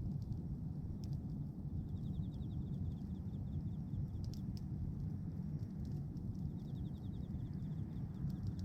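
Wood bonfire of pruned branches burning with a steady low rumble and a few sharp crackles and pops.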